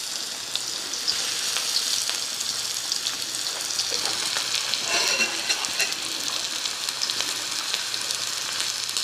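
Lotus-root and meat patties shallow-frying in oil on low heat in a wide black iron pan: a steady sizzle with fine crackles.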